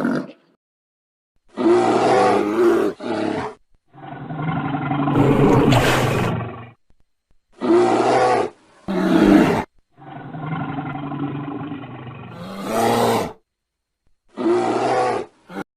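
A large animal's pitched, rough calls, played over and over with dead-silent gaps between them: short calls alternating with longer, drawn-out ones.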